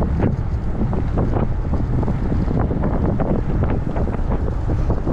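Wind buffeting the microphone: a steady low rumble with irregular gusts and crackles.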